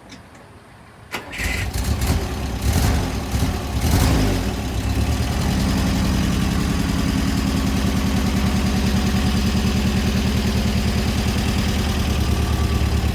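Pinzgauer 710K's air-cooled four-cylinder petrol engine cold-started without the choke: it cranks about a second in, catches unevenly with a few revs for several seconds, then settles into a steady idle. The start is a little cold-natured, but not too bad.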